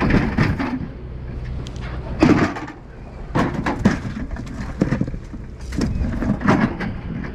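Steady low drone of a fishing boat's engine, broken by several irregular knocks and bangs around the deck.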